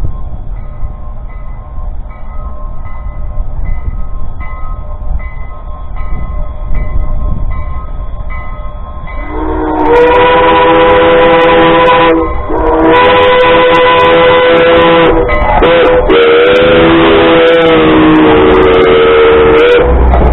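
Steam locomotive chime whistle blowing a long, long, short, long sequence, the standard grade-crossing signal, starting loud about ten seconds in. Before it, a faint bell rings at an even pace, about once every half second.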